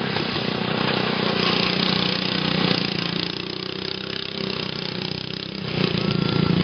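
Racing lawn mower engines running, dipping in loudness through the middle and louder again about six seconds in.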